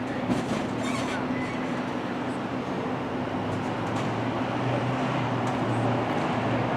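City street traffic noise with a steady low hum; a lower hum grows stronger about halfway through as the sound gets slightly louder.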